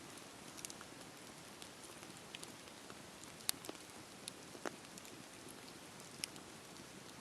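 Campfire burning: a steady low hiss with scattered sharp crackles and pops, the loudest about three and a half seconds in.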